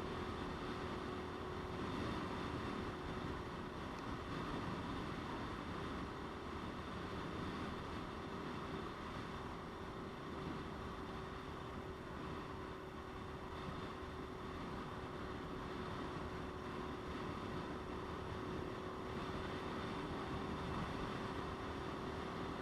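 Motorcycle engine running at a steady cruising speed, one held tone, with wind rushing over the microphone.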